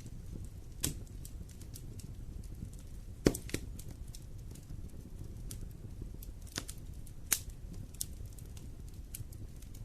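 Wood fire burning in a fireplace, crackling with scattered sharp pops over a low steady rush of flame; the biggest pops come about a second in, about three seconds in, and past the seven-second mark.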